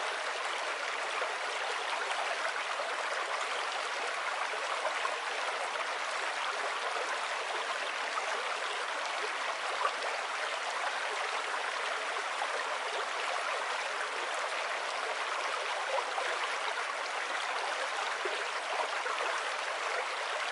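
A small river flowing steadily, its water splashing and gurgling evenly.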